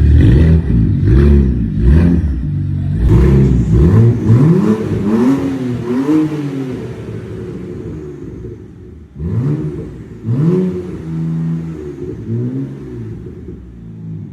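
BMW N54 twin-turbo straight-six running with the exhaust system removed, loud and raw, revved in repeated short blips that rise and fall in pitch. The revs die down briefly partway through, then a second round of blips follows.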